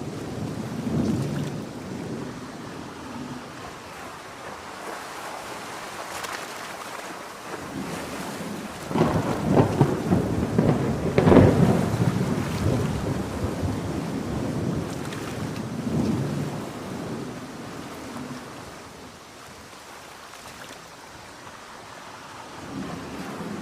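Steady heavy rain with rolling thunder. A long, loud rumble builds about halfway through and peaks, then fades, with smaller rumbles before and after it.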